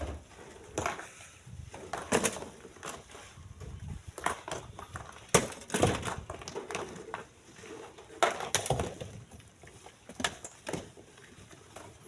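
Chunks of split stone knocking and clattering against each other as they are handled and loaded, in irregular sharp knocks about a second apart, some followed by a short scrape.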